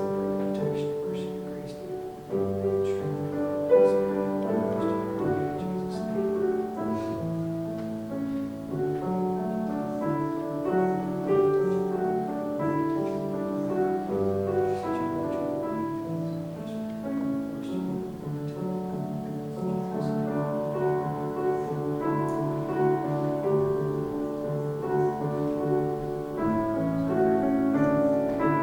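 Slow, soft piano music with held chords, played through a time of prayer.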